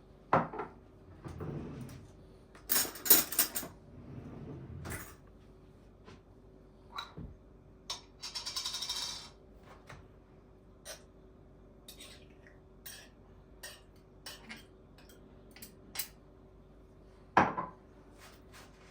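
Dishes and cutlery being handled: separate clinks and knocks, a louder clatter about three seconds in, a short rattle around eight to nine seconds and a sharp knock near the end.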